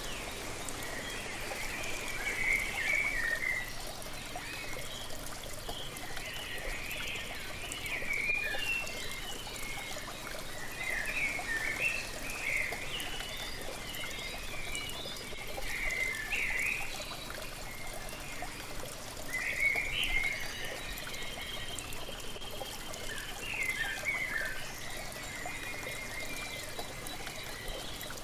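Steady rush of a waterfall with birds chirping and singing in short phrases at intervals throughout.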